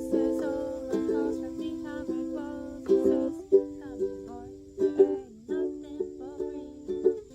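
Ukulele being strummed, chords ringing in a steady rhythm, with a few harder strums standing out around three and five seconds in.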